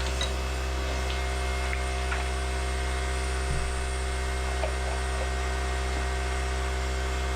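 Steady electric motor hum, even and unchanging, with a few faint light taps.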